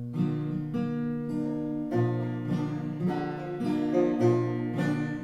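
Acoustic guitar playing the instrumental intro of a folk song: low bass notes about once a second under steady strummed chords.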